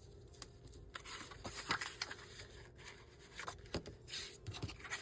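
Paper being folded and creased by hand: irregular rustling and scraping with a few light taps.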